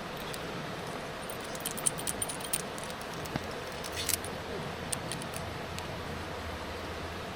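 Light metallic clinks and rattles: a quick cluster about a second and a half in, a sharper clink about four seconds in and a few scattered ones after, over a steady background hiss.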